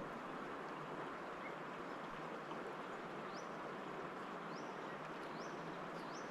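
River water running steadily. A bird gives short rising calls four times in the second half.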